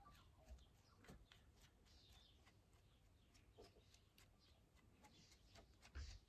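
Near silence: faint scattered clicks and ticks of small handling, with a few faint bird chirps in the background.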